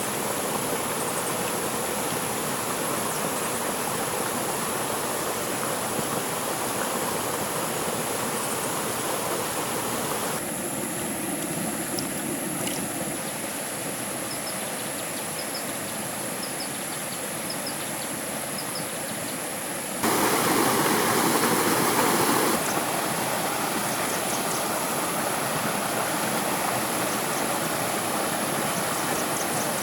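Steady rush of a stream's running water, changing abruptly a few times, with a louder stretch of two or three seconds past the middle.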